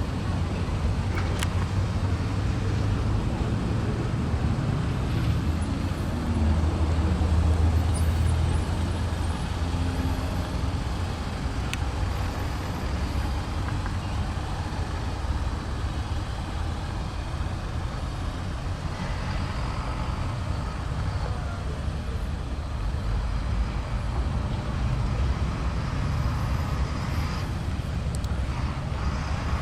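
Steady low rumble of vehicle noise, swelling a little a few seconds in, with a couple of faint clicks.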